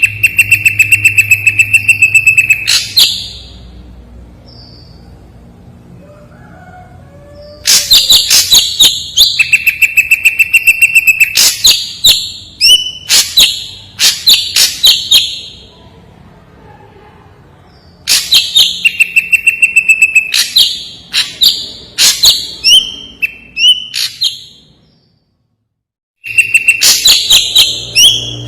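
Ashy drongo singing in bouts of a few seconds: fast runs of sharp repeated notes over a held buzzy whistle, broken by quick separate chirps, with short pauses between bouts.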